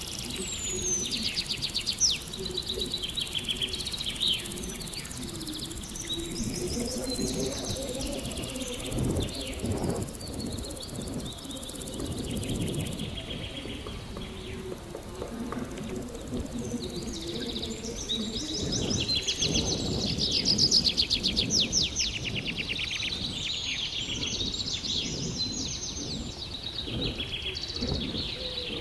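Woodland birds chirping and singing, many short phrases throughout and busiest in the latter half, over a continuous low rustle of a bicycle rolling along a woodland path.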